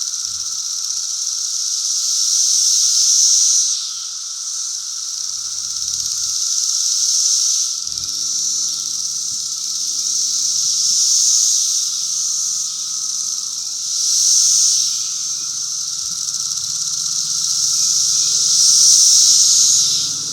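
Brood V periodical cicadas (17-year Magicicada) calling in chorus: a dense, high-pitched buzzing that swells and fades in waves every few seconds over a steady lower drone.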